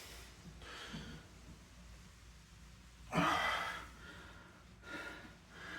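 A man breathing hard with effort during single-leg deadlift reps: a few forceful exhales, the loudest a voiced one about three seconds in.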